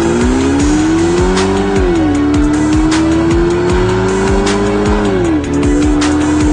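Kia Stinger 2.0T's turbocharged four-cylinder engine with a titanium valved cat-back exhaust, accelerating hard. The engine note climbs steadily and drops sharply at an upshift about two seconds in and again about five seconds in, then climbs again. Music with a regular beat plays underneath.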